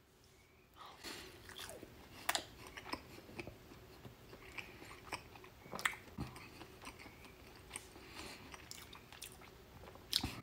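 Close-up chewing of a bite of sauced barbecued meat: irregular wet mouth clicks and smacks, starting about a second in.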